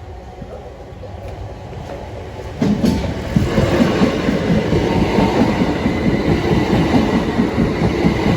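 Southeastern Class 375 Electrostar electric train approaching and running past over the level crossing. Its noise builds, then jumps suddenly about two and a half seconds in to a loud, steady rumble with a quick rhythm of wheel beats on the rails.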